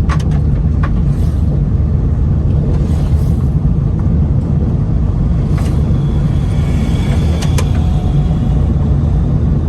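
Steady low rumble of a car driving, heard from inside the cabin, with several sharp ticks of loose stone chippings flicked up against the car's body.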